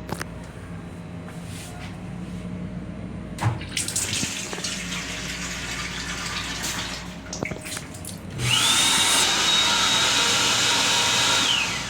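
Metro-North M7 railcar restroom fixtures in use. A click about three and a half seconds in, then water running for a few seconds. About eight and a half seconds in, a loud motor whines up to a steady high tone, runs for about three seconds and winds down, over the train's low rumble.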